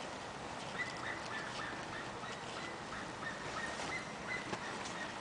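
Ice cracking: many small, irregular sharp clicks and crackles over a steady hiss.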